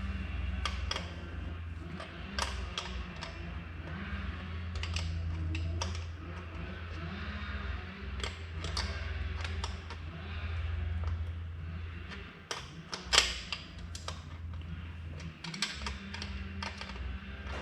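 Irregular small metallic clicks and taps of hand tools and parts while a mechanical fuel pump is worked into place on a small-block Chevy 350, with one sharper knock about thirteen seconds in. A steady low hum runs underneath.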